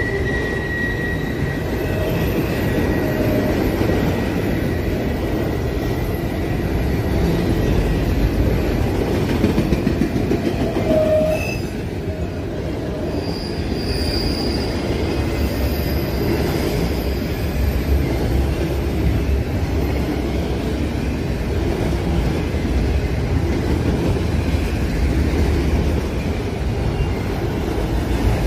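Freight train of autorack cars rolling past close by, a steady rumble of steel wheels on rail. Thin, high-pitched wheel squeals come through at the start and twice more about halfway through.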